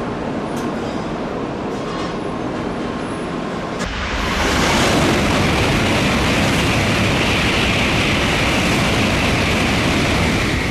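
Tokaido Shinkansen bullet train passing through a station at high speed: a steady rushing noise of the approach, then about four seconds in a sudden loud rush of air and wheels on rail that stays loud and steady as the train streams past.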